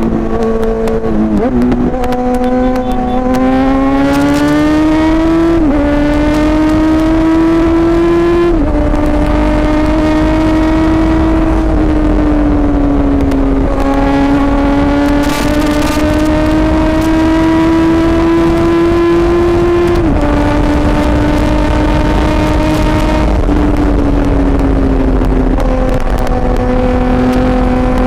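Kawasaki Z900's inline-four engine through an Akrapovic carbon full-system exhaust, ridden: the note climbs steadily in pitch, then steps sharply down several times as it shifts gears.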